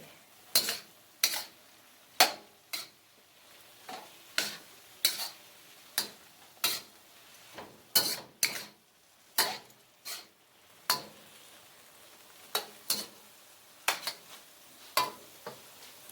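A cooking utensil scraping and knocking against a frying pan in irregular strokes, about one or two a second, as chicken is stirred together with its sauces. Faint sizzling runs underneath.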